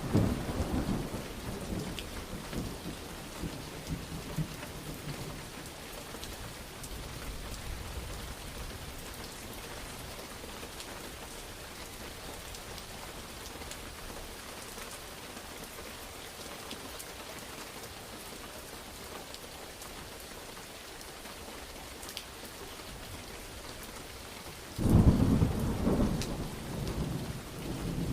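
Steady rain falling with thunder: a rumble fading out over the first few seconds, then a sudden loud thunderclap rolling on near the end.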